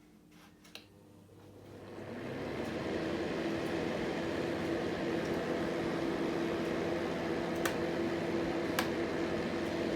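Fine Elements upright fan heater switched back on after its thermostat cut out: a click, then the fan spinning up over a couple of seconds into a steady whirring hum.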